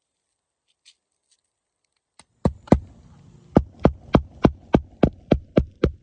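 Hand hammer driving a roofing nail through a shingle: after a quiet start, a steady string of sharp blows, about three a second, begins two seconds in.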